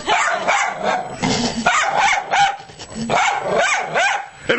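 Dog barking repeatedly, a rapid string of short barks whose pitch slides up and down.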